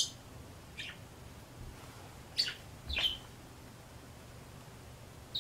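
Pet bird chirping: a few short, high chirps spaced about a second apart.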